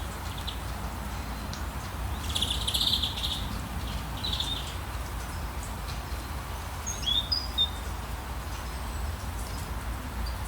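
Songbirds chirping in short calls: a buzzy trill about two seconds in, another call about four and a half seconds in, and a few quick chirps around seven seconds, over a steady low rumble and faint scattered ticks.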